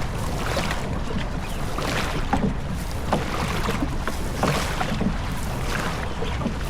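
Rowing boat under way: water rushing with wind buffeting the microphone, and a surge of splash and knock roughly every two seconds with each stroke.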